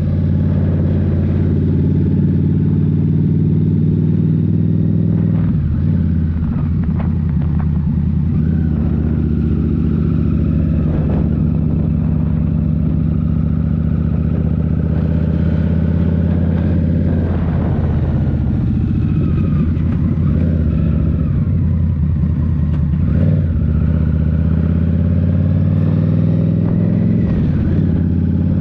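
2023 Indian Scout Rogue's 69 cu-in V-twin engine running through a Rinehart slip-on exhaust as the motorcycle rides along. The engine speed stays mostly steady, with a few brief changes in pitch.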